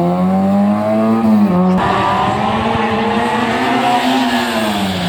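A historic rally car's engine revs hard as the car drives a stage, its pitch climbing, dipping briefly at a gear change, then rising and falling again. A sudden rush of noise, tyres on the road surface, comes in about two seconds in as the car comes close.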